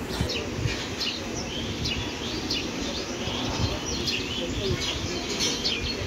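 Small birds chirping, many quick short notes in a constant scatter over a low background noise.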